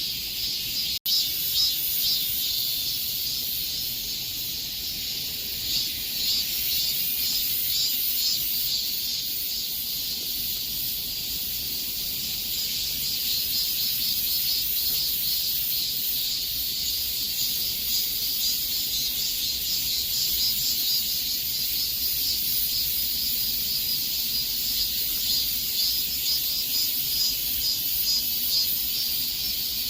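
Cicadas buzzing in a steady, high-pitched, pulsing chorus. There is a momentary dropout about a second in.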